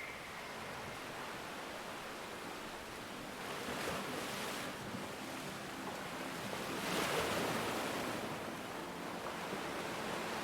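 Ocean surf washing ashore as a steady wash of noise, with waves breaking and swelling louder about four seconds in and again about seven seconds in.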